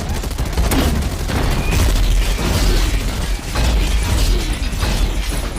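Loud booms with rapid crackling bangs over a heavy low rumble, like an explosion-and-gunfire sound effect.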